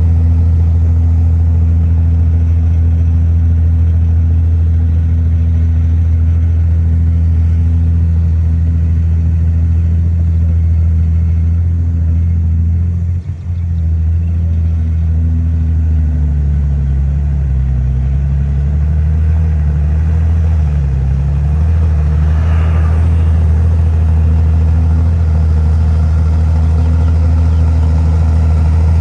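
Heavy diesel engine of earthmoving machinery running steadily. It dips briefly about halfway through, and its pitch wavers up and down for a few seconds afterwards.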